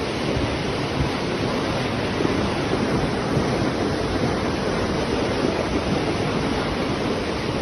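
Steady rushing of fast-flowing floodwater: an even, unbroken roar of water.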